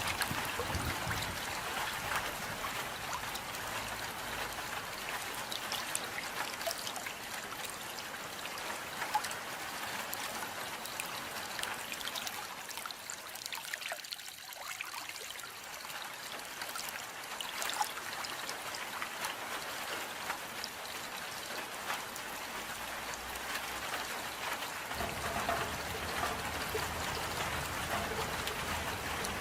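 Steady rain falling: a continuous even hiss dotted with many small drop ticks. A faint low rumble joins near the end.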